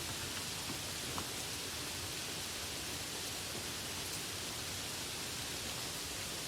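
Steady rain, an even hiss of falling water with a single faint drop tick about a second in.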